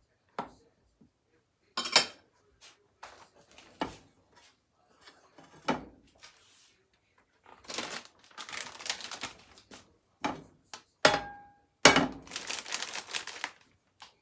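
Kitchen clatter: pans and utensils knocking and clinking, a handful of separate sharp knocks, one ringing briefly. Two longer stretches of crackly rustling come in the middle and near the end.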